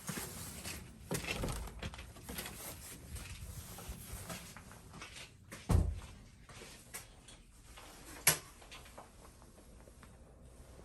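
Objects being handled: scattered rustling and light knocks, with a heavier thump about six seconds in and a sharp click a couple of seconds later.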